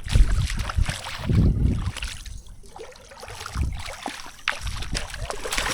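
Wind buffeting the microphone in irregular low rumbling gusts, with a few short clicks and knocks of handling.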